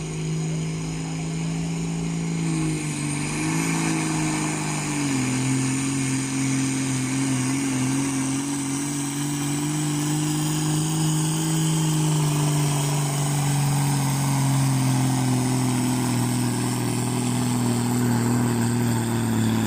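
John Deere farm tractor's engine running flat out under heavy load on a tractor-pull run. It holds a steady note that drops sharply about five seconds in, then sags slowly toward the end as the pulling load builds.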